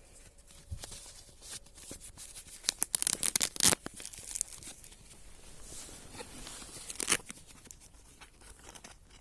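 Dry twigs and debris crackling and rustling in irregular bursts, loudest about three seconds in, with a sharp snap about seven seconds in.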